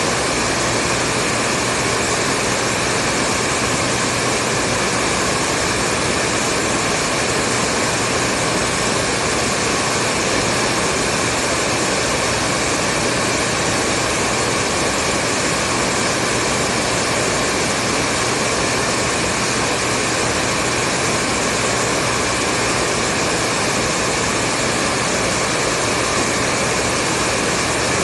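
Hair dryer running continuously, a steady, unchanging whoosh of blown air and motor hum.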